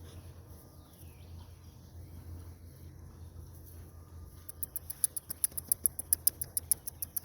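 A rapid, even run of light sharp clicks from the puppies, about seven a second, starting a little past halfway and lasting about two and a half seconds, over a low steady hum.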